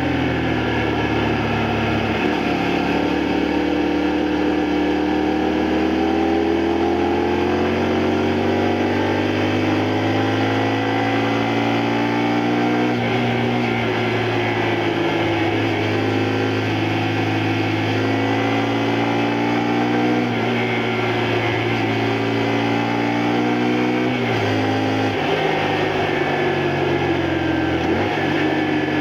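Honda Varadero XL125V's 125 cc V-twin engine running on the move. Its pitch climbs and falls again and again with throttle and gear changes, with a sharp drop and climb about three-quarters through.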